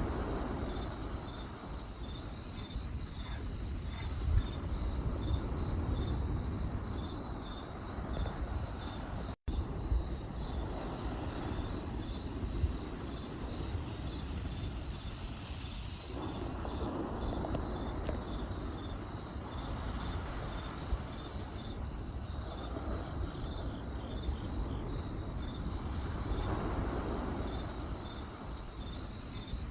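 Crickets chirping in a steady fast pulse over the crackle of a campfire, with a few sharp pops and a constant low noise from the fire. The sound cuts out for an instant about a third of the way in.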